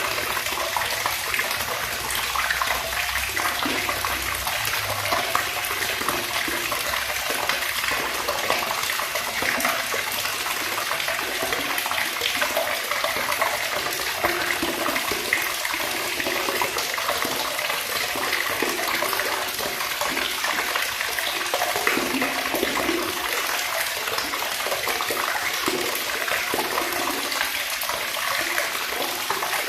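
Water running steadily from a tap and splashing.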